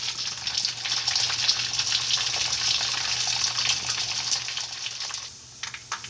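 Sun-dried pork skin pieces deep-frying in a small pan of hot oil: a steady sizzling hiss dotted with crackles and pops, dropping away briefly near the end.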